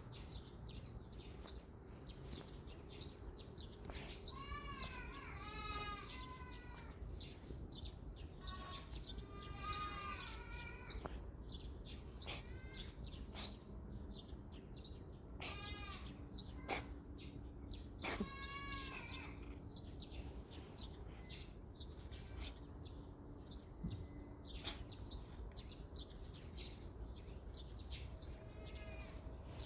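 Goats bleating with a quavering, wavering call, several times over, with a few sharp knocks in between.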